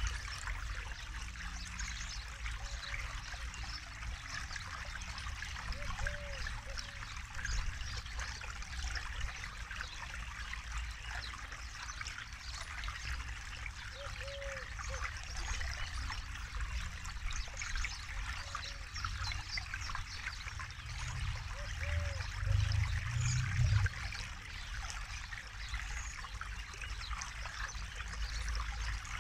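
River water flowing and babbling steadily, with a low rumble underneath that swells briefly near the end. A short, low call sounds several times, a few seconds apart.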